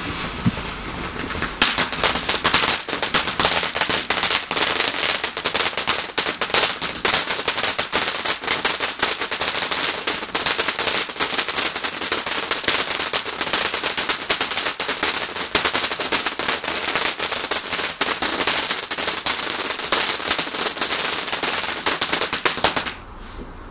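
A garden firework's fuse hisses briefly, then about a second and a half in it breaks into a dense, rapid crackle of small pops. The crackle keeps on for around twenty seconds and cuts off suddenly near the end.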